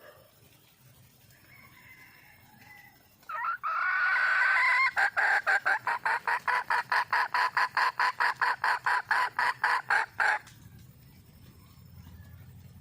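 Wild red junglefowl hen calling for a mate. Faint calls at first, then about three seconds in a loud drawn-out call that breaks into a rapid run of clucks, about four a second, cutting off suddenly after some six seconds.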